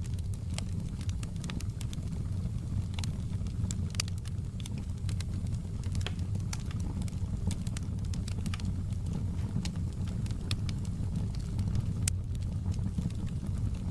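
Wood fire burning in a fireplace, crackling: irregular sharp pops and snaps of the burning logs over a steady low rumble of the flames.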